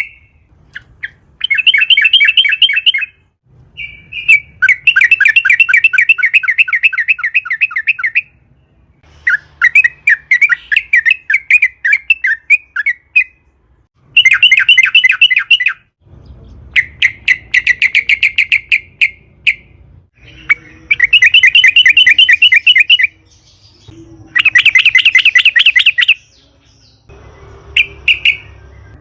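Yellow-vented bulbul (trucukan) singing long, rapid rolling phrases of fast repeated notes. Each phrase lasts a few seconds, with short pauses between.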